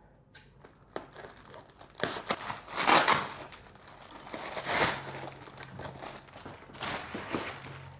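Packaging around a ceiling fan's motor unit being crinkled and torn open as it is unwrapped: irregular rustling and crackling, loudest about three seconds in and again near five seconds.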